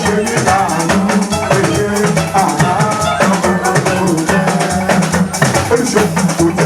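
Live church band music: drums and shakers keep a steady, busy beat under a pitched melody line.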